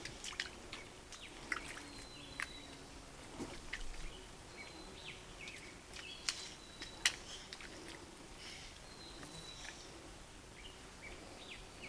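Scattered light clicks and taps from handling pipe fittings and a filter, with faint bird chirps over a low outdoor hush.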